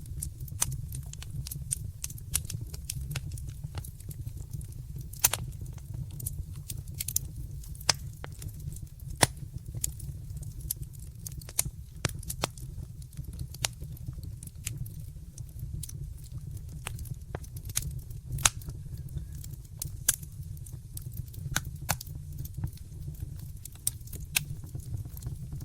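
Wood fire burning in a fireplace: irregular crackling and snapping pops over a steady low rumble of the flames.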